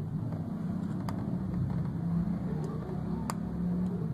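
Italika RT250's single-cylinder engine idling steadily with a fast, even pulse, with two light metal clicks from a screwdriver at the carburettor drain screw about a second and three seconds in.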